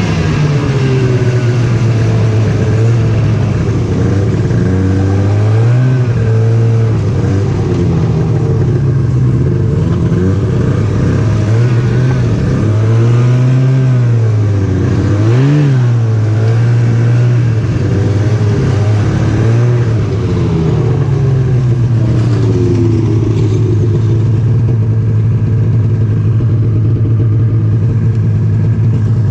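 Snowmobile engine running under way, its pitch rising and falling with the throttle, then holding steady over the last few seconds.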